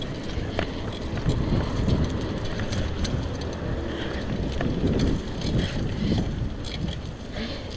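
Wind buffeting the microphone while riding a bicycle, over a steady low rumble of the ride, with scattered small clicks and rattles.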